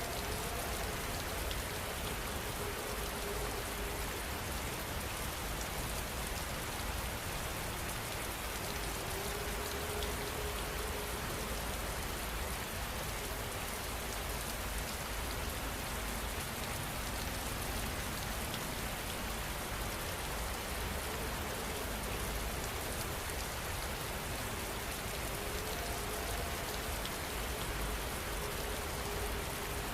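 Steady heavy rainfall: an even, unbroken hiss of rain with a low rumble underneath.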